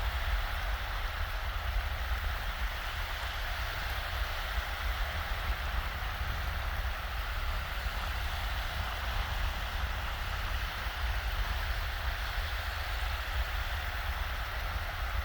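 Small, shallow waves washing steadily on a sandy beach, with a low rumble of breeze on the microphone.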